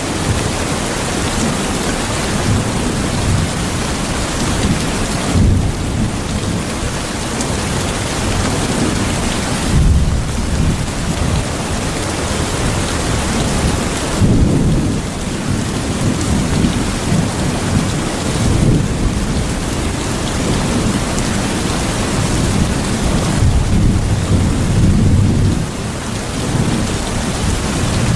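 Steady rain with low rumbles of thunder that swell and fade several times, the strongest about ten seconds in and again near the end.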